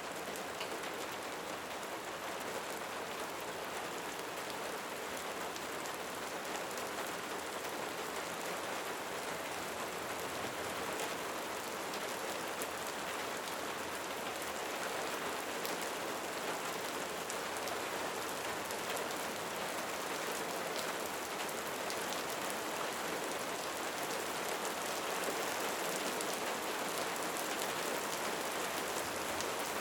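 Steady rain falling on a surface, an even wash of patter with many individual drops ticking through it, growing slightly louder over the stretch.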